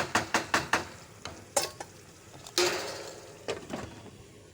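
A spoon knocking quickly and evenly against a cooking pot while chicken in masala is stirred, about six strikes a second, stopping about a second in; then a few scattered clanks and a short scrape.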